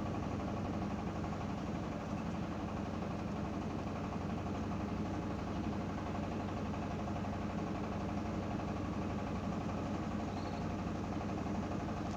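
A steady machine hum, even and unchanging throughout, with a faint short chirp about ten and a half seconds in.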